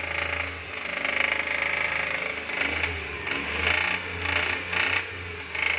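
F6 engine being revved in a series of throttle blips over a steady low running hum, knocking as it accelerates though it idles smoothly: the knock is the fault.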